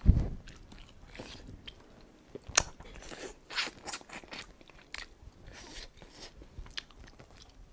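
Close-miked eating: meat bitten and torn from a cooked bird's leg bone and chewed, with scattered sharp crunches and wet mouth clicks, the loudest crunch about two and a half seconds in. It opens with a loud, low, muffled thump as a cloth is wiped over the face close to the clip-on microphone.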